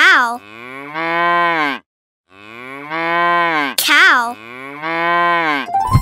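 Domestic cow mooing three times, each long call rising and then falling in pitch.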